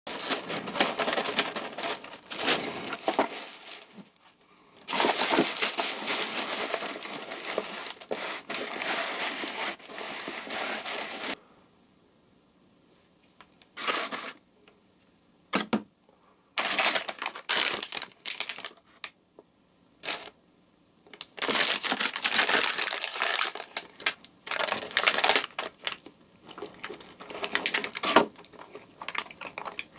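Food packaging crinkling and rustling as it is handled: long dense stretches at first, then a quiet spell about halfway with a few short rustles, then many short bursts.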